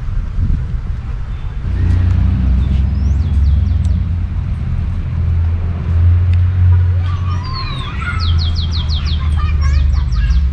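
Small birds chirping, with a quick run of repeated high notes twice, the second run longer, over a steady low rumble that is the loudest sound.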